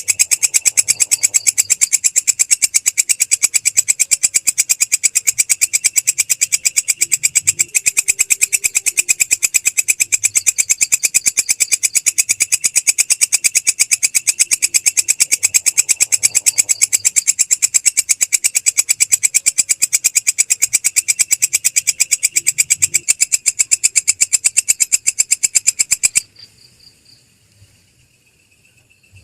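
Belalang krek, an Indonesian singing grasshopper, stridulating in a rapid, even, high-pitched train of scratchy pulses. It stops abruptly about three seconds before the end.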